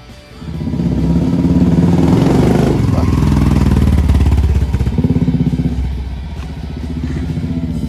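Motorcycle engine starting up about half a second in and running loudly with a fast, even firing pulse, easing off a little about five seconds in.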